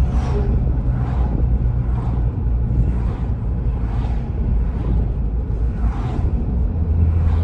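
Volkswagen GTI 2.0-litre turbo four with an AWE Touring catback exhaust and catted downpipe, heard from inside the cabin with the windows partly open while driving: a steady low exhaust drone. Near the end the drone grows deeper and louder.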